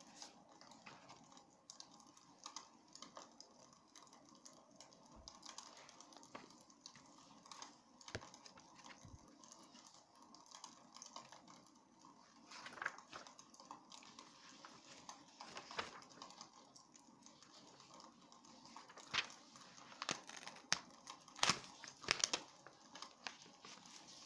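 Wood fire crackling in a fireplace: a quiet crackle with scattered sharp pops, which come louder and closer together in the last third.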